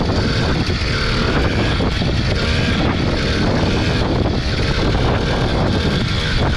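80cc two-stroke motorized-bicycle engine running steadily while the bike is ridden.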